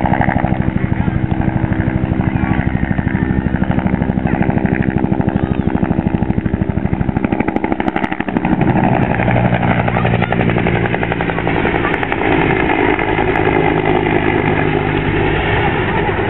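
Piston engine running loudly with a fast, even pulse; about eight seconds in, a stronger, steady engine note takes over.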